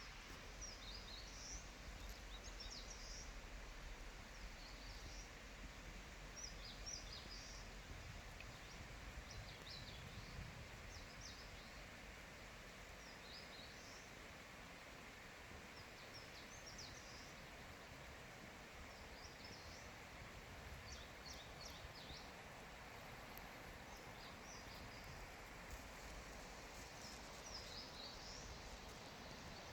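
Forest birds chirping faintly, short high call phrases every second or two, over a steady background hiss.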